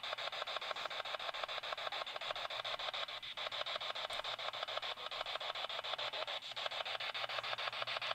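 Steady electronic static hiss chopped into rapid, even pulses of about ten a second, with two brief dips.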